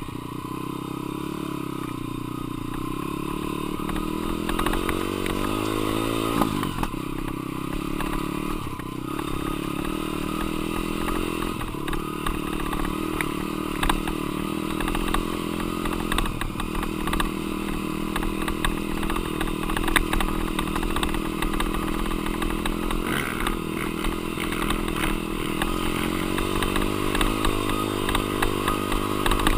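Dirt bike's single-cylinder engine running under riding load, its pitch repeatedly rising and falling as the throttle is opened and shut. Scattered clattering knocks run through it, the sharpest about 14 and 20 seconds in.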